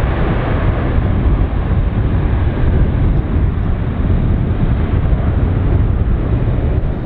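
Airbus A330-200 airliner's jet engines, a steady heavy rumble.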